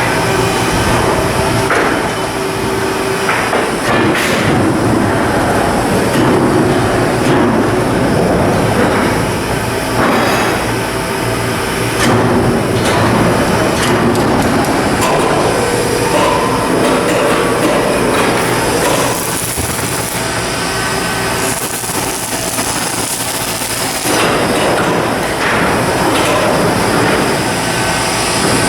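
Shipyard steel-work noise: a steady machinery hum under continuous clatter, with repeated metal knocks and hammer blows.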